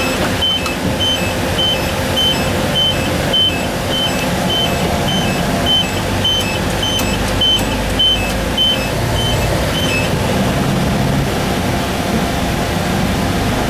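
Steady engine and road noise inside a Kenworth truck's cab, with a high electronic beep repeating nearly twice a second that stops about nine seconds in.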